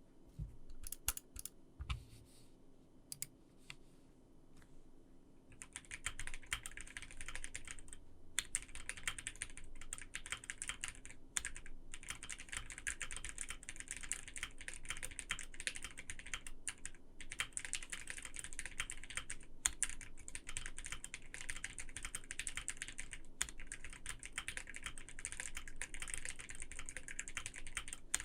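Typing on a Voice65 custom mechanical keyboard with lubed Turquoise Tealios 67g linear switches on a PE plate with case foam. A few scattered key presses at first, then from about five seconds in fast, steady typing with a few brief pauses.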